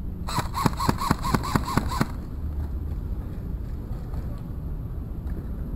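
Airsoft rifle firing about eight sharp shots in quick succession, about five a second, stopping about two seconds in.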